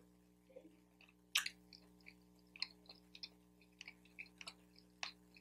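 A man chewing a mouthful of Chinese takeout with his mouth closed, heard close up: faint, scattered wet smacks and clicks, the loudest about a second and a half in.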